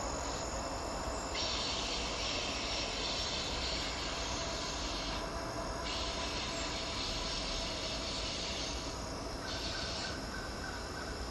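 Distant approaching train, a low steady rumble, with insects buzzing high over it in stretches that start and stop every few seconds.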